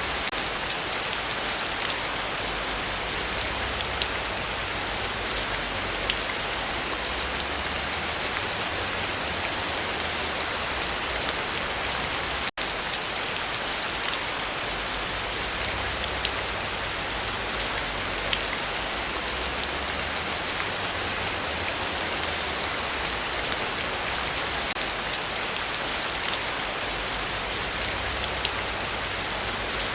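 Heavy rain falling steadily, a dense hiss dotted with sharp ticks of individual drops. The sound cuts out for an instant about a third of the way in.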